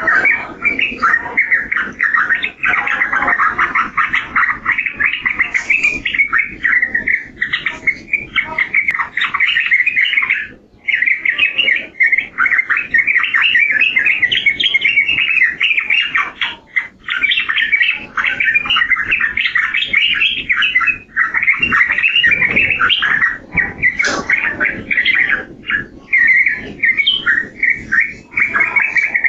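Yellow-vented bulbul (trucukan) singing in a dense, nearly unbroken run of quick chattering notes, pausing briefly about ten and seventeen seconds in.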